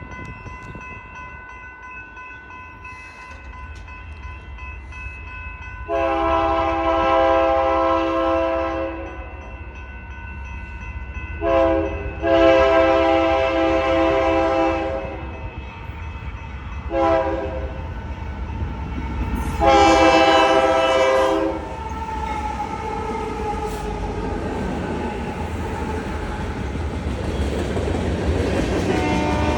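Freight locomotive's multi-chime air horn sounding the grade-crossing signal: two long blasts, a short one and a final long one. After the last blast, the locomotive's rumble and the clatter of the train grow louder as it arrives.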